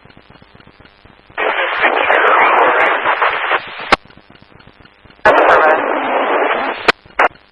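Scanner radio receiving two keyed-up transmissions, each a couple of seconds of loud static with no clear voice, each cut off by a squelch-tail click.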